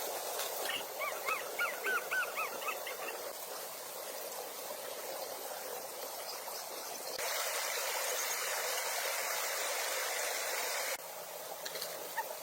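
Steady hiss of rain, with a run of about ten short, rising-and-falling chirping calls from a small animal in the first three seconds. The rain gets louder abruptly about seven seconds in and drops back near the end.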